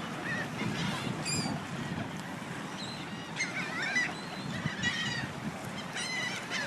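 A flock of ducks calling, with bursts of calls coming every second or two over a steady outdoor hiss.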